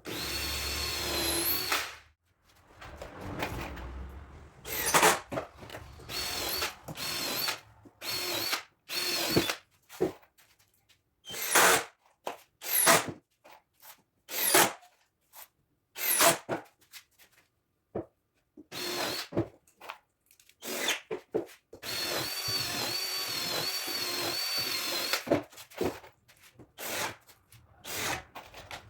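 Power drill-driver driving screws into MDF panels, running in many short bursts with a steady high whine, plus two longer runs near the start and about two-thirds of the way through.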